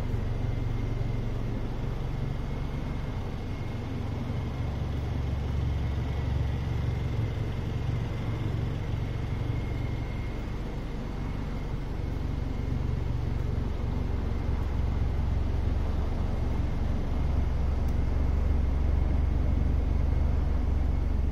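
Mitsubishi Lancer Evo X's turbocharged 2.0 L 4B11 four-cylinder idling steadily through a Cobb 3-inch catback exhaust: a low, even rumble with a faint steady high tone over it.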